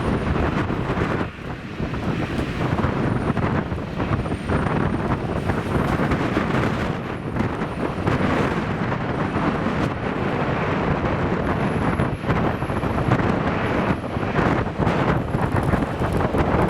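Strong wind buffeting the microphone: a loud, rough, gusting rumble that rises and falls without a break.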